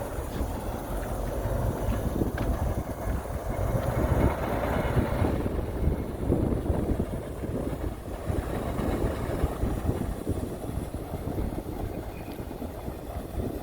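Heavy diesel earthmoving machinery running, a continuous low rumble that swells a little around the middle.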